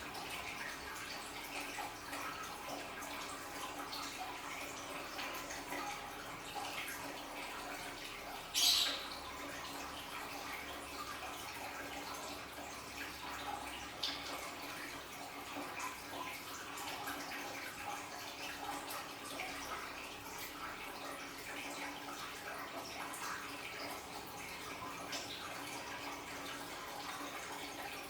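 Water from an aquarium's waterfall feature trickling and splashing steadily, with small drips throughout and one louder splash about a third of the way in.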